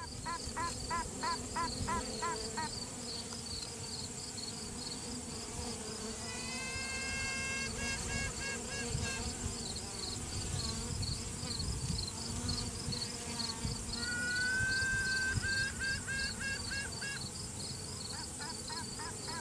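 Honey bee virgin queen piping over the hum of the colony. Twice she gives a trumpet-like toot, a long note that rises and then holds, followed by a few short repeated notes. Runs of short pulsed notes come at the start and near the end, and a quick high pulsing runs throughout. This is a virgin queen sounding off to assert her dominance, with another queen likely answering.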